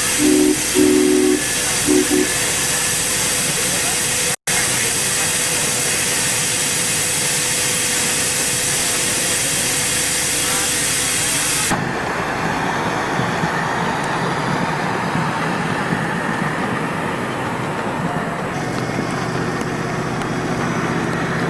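Half-size Case steam traction engine letting off a loud steady hiss of steam, with three short low toots in the first couple of seconds. The hiss cuts off suddenly about twelve seconds in, leaving a quieter steady running noise.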